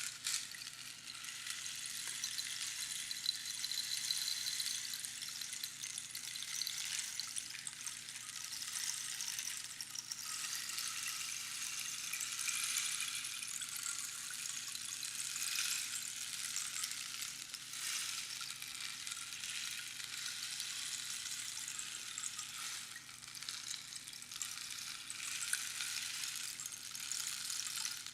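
Rainstick: pebbles trickling down over the pins inside the hollow tube, a steady rain-like rush that swells and eases every few seconds as the stick is turned.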